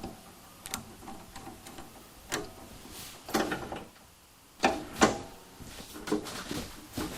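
Scattered clicks and clunks from hand work on go-kart parts. A few louder knocks come about three and five seconds in, some ringing briefly.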